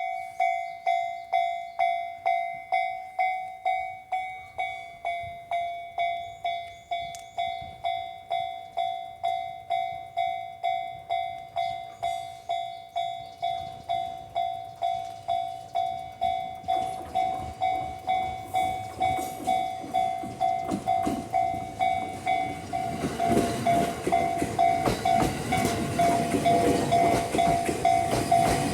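Japanese level-crossing warning bell ringing steadily at about two strikes a second. Past the halfway point the rumble of an approaching E231-1000 series electric train builds under the bell, growing loudest near the end as the train passes the crossing.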